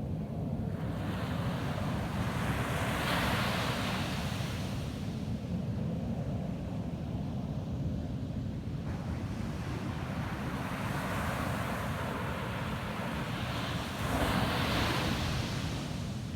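Ocean waves breaking on a beach: two surges of surf wash in and fade, the second, near the end, the louder, over a steady low rumble of wind on the microphone.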